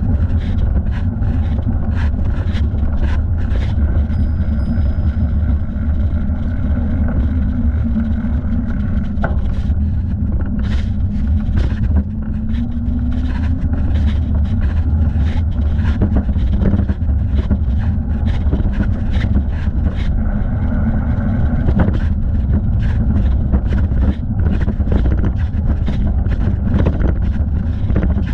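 Steady low rumble of wind and riding noise on a thigh-mounted camera on a moving bicycle, with frequent short clicks and rattles.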